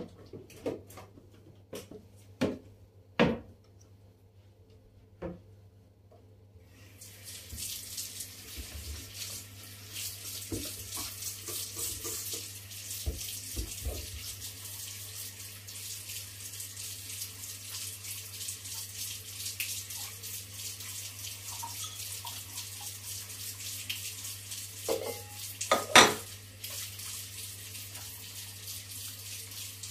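Kitchen tap turned on, water running steadily into the sink, after a few light knocks and clatters of items being handled. Dishes clatter against the sink near the end.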